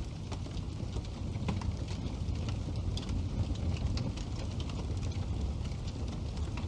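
Wood fire burning in a fireplace: a steady low rumble of the flames with frequent small, sharp crackles and pops from the burning wood.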